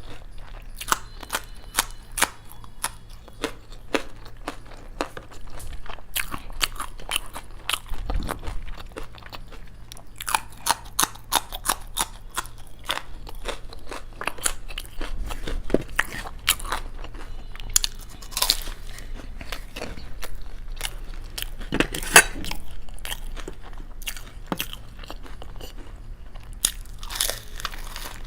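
Close-miked eating: crunching bites and chewing of crispy fried Indian snacks, dal pakwan and samosas. Many sharp, irregular crunches follow one another, over a steady low hum.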